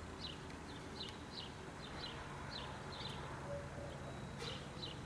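A small bird chirping in the background: a series of short, high chirps that slide down in pitch, about two a second, with a brief gap in the middle.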